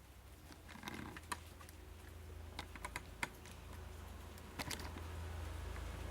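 Scattered light clicks and taps of multimeter probe tips on a TV circuit board's solder joints and component leads as parts are tested one by one, in small clusters about a second in, around three seconds and near the end, over a low steady hum.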